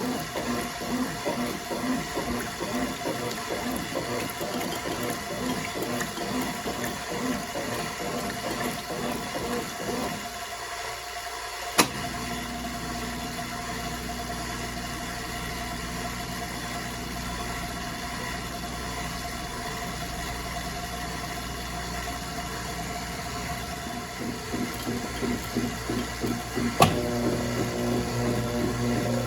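1996 Brastemp Clean 5 kg washing machine running through its cycle: water churning with a pulsing motor sound, then a sharp click about twelve seconds in as it switches over to a steady motor hum. Near the end the pulsing comes back, and another click changes the motor note.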